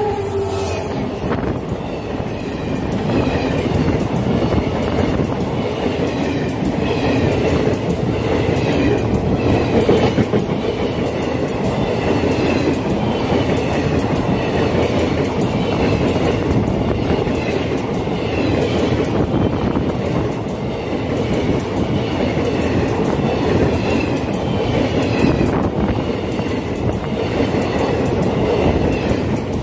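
Express passenger train passing close at speed: the locomotive goes by first, then a long rake of coaches, wheels clattering over the rail joints in a steady rhythm under a continuous loud rumble. A faint high squeal repeats about once a second.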